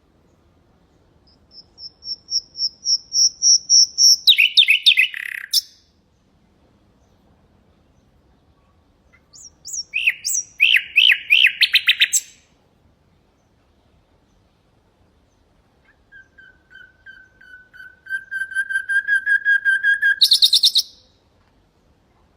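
Nightingale singing three separate phrases. Each phrase is a run of repeated notes that swells in loudness and ends in a fast flourish. The last phrase is on lower repeated notes and ends in a brief high buzz.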